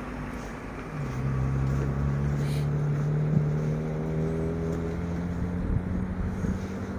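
Car engine running close by at a steady pitch, in street traffic, starting about a second in after a louder passing vehicle has faded.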